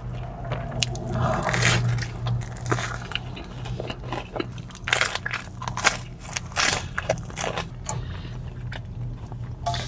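A person biting into and chewing crisp food close to the microphone, a run of sharp crunches and crackles, the loudest about halfway through, over a steady low hum.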